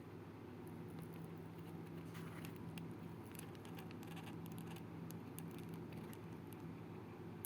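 Light, rapid clicks and taps of small die-cast toy trucks knocking and rattling against each other, over a steady low hum.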